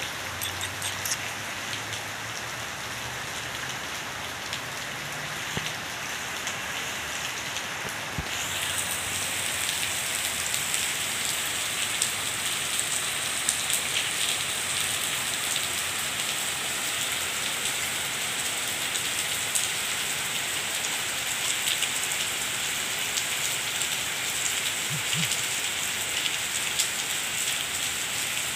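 Steady rain falling on a wet concrete yard and puddles, with scattered drips ticking through it; the rain grows louder about eight seconds in.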